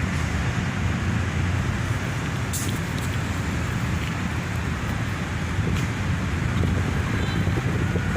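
Steady low vehicle rumble with a haze of wind-like noise and a few faint ticks.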